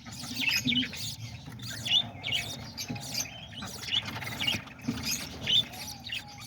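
A flock of small pet parrots (parakeets, lovebirds and cockatiels) chirping and chattering, many short overlapping high chirps.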